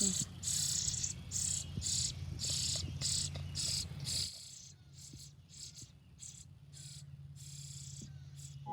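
Cricket chirping in a steady rhythm, about two high chirps a second over a low hum. The chirps turn faint about four seconds in.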